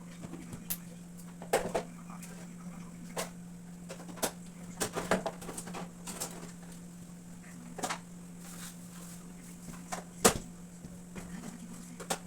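Scattered knocks and clatters of things being handled and set down, over a steady low hum.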